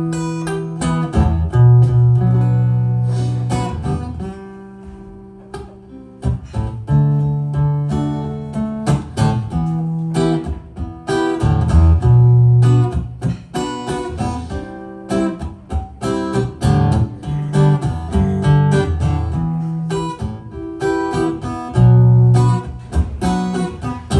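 Acoustic guitar played alone, strummed and picked chords forming the intro of a slow original song, with a quieter stretch about five seconds in.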